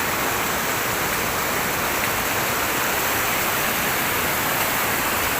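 Steady rushing of fast-flowing mountain stream water over rocks.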